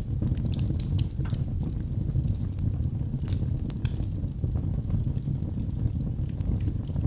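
Wood fire burning in a fireplace: a steady low rumble of flames with many scattered sharp crackles and pops from the burning wood.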